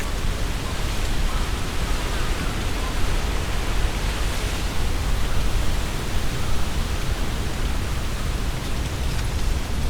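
Strong wind blowing through trees, with their leaves rustling in a steady hiss and a deep, uneven rumble of the gusts underneath.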